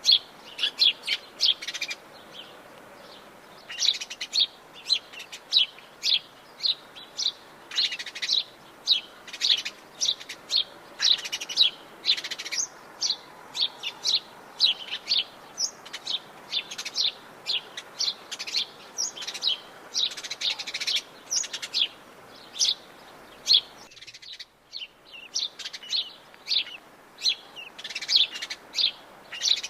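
Wild songbirds chirping in a dense, continuous chorus of short, quick high notes over a faint steady hiss; the hiss cuts out abruptly about two-thirds of the way through while the chirping goes on.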